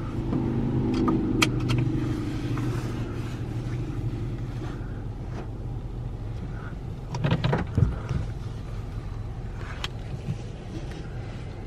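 A car's engine idles with a steady low hum, heard from inside the car. Scattered clicks and knocks come through, with a cluster about seven to eight seconds in.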